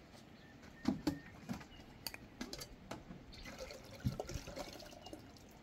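Liquid dripping and splashing, with scattered sharp clicks and a few dull knocks.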